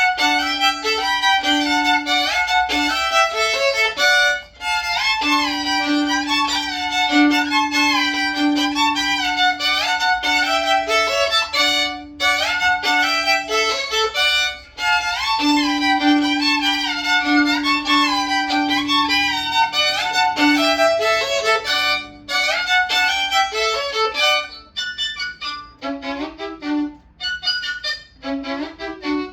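Violin playing a folk-style melody in double stops over a steady repeated low drone note, with short breaks between phrases. The playing turns quieter and thinner about four seconds before the end.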